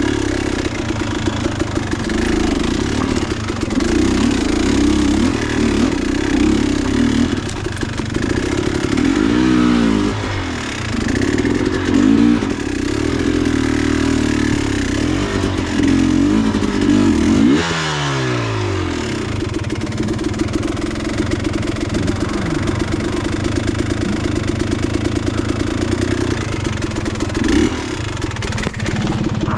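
Dirt bike engine running steadily as it is ridden, its revs rising and falling with the throttle. The revs dip briefly about ten seconds in and drop sharply at around eighteen seconds.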